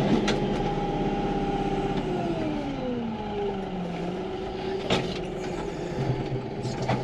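Farm tractor running while pushing snow, with a whine that falls steadily in pitch a couple of seconds in and starts to climb again near the end. A sharp click about five seconds in.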